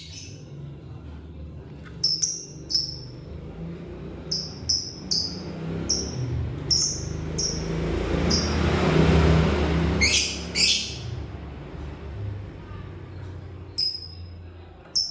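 Lovebird chirping: a run of short, sharp, high-pitched chirps, two to three a second, then two louder, harsher calls about ten seconds in and a few single chirps near the end. A swell of hissing noise rises and fades just before the harsh calls.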